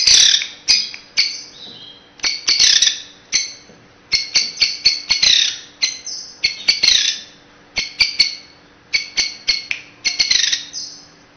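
A bird calling: quick runs of short, high chirps broken up by a few longer calls that sweep downward, in bursts with brief pauses between them.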